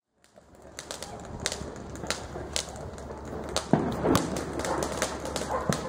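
Fireworks and firecrackers going off: an irregular string of sharp pops and cracks, with a louder bang a little past halfway, over a steady low hum.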